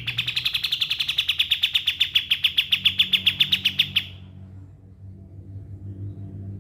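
A kapas tembak bulbul singing its rapid machine-gun trill: a fast string of about nine sharp notes a second that grows louder and stops suddenly about four seconds in, over a faint low hum.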